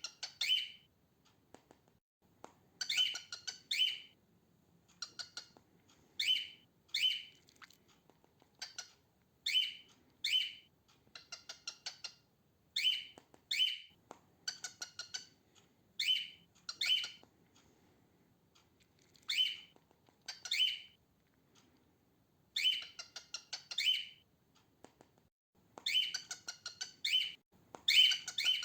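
Female cockatiel calling: short, harsh chirping calls, mostly in pairs repeated every two to three seconds, with a couple of quick runs of rapid chips. This squawky chirp, rather than a whistled song, is the female's usual call.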